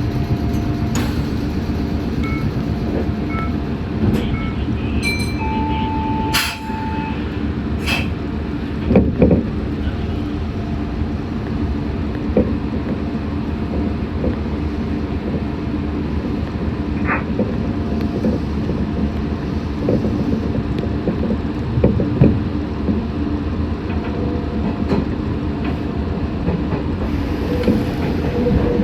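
Meitetsu 6500 series electric train running, heard from inside just behind the driver's cab: a steady rumble with a constant hum, scattered sharp clicks of the wheels over the track, and a short steady tone about six seconds in.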